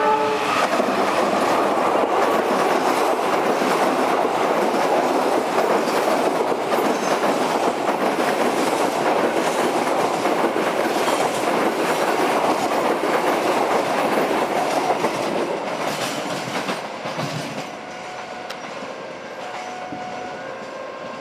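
Passenger train passing at speed: a loud, steady rush of wheels and carriages on the rails with clickety-clack. It fades away over the last several seconds as the train moves off.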